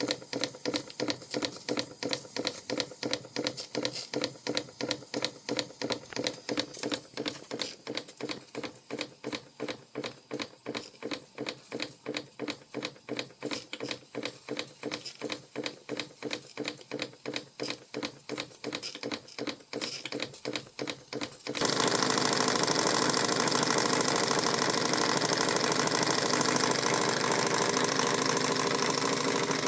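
Vintage Krick model marine steam engine running, with an even beat of about three strokes a second. About two-thirds of the way through it changes abruptly to a louder, steady rush with no separate beats.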